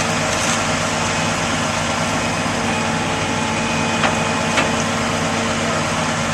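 A vehicle engine idling steadily, with two short clicks about four and four and a half seconds in.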